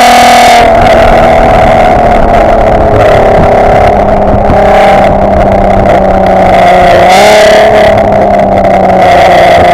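3.2-litre VR6 engine of a Mk5 Golf R32 heard through a decat, non-resonated Milltek exhaust right at the tailpipe, loud enough to distort the microphone. The engine holds fairly steady revs, with a slight dip in pitch about seven seconds in.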